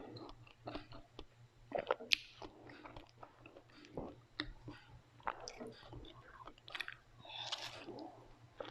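Close-miked eating: a person chewing and biting food, with irregular sharp crunches, the loudest about two seconds in.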